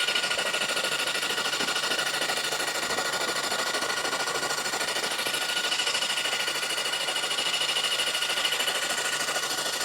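Electric starter motor of a 1973 Honda CB750 four-cylinder engine cranking the engine over continuously, a steady whine with a fast, even pulsing as the pistons go round. The once-seized engine now turns freely on the starter, pumping ATF out of the cylinders.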